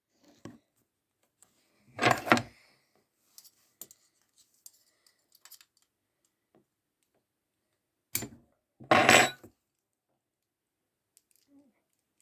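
Small metal parts of a Zippo lighter being handled, clinking and scraping. Two louder, noisy bursts come about two seconds in and about nine seconds in, with sharp clicks and scattered light ticks around them.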